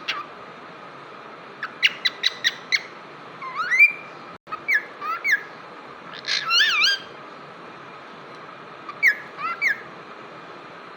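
Cockatiel singing in bursts: a quick run of short chirps, then rising and falling whistled notes and a warbling phrase, with a pause of about two seconds before a last few whistles near the end.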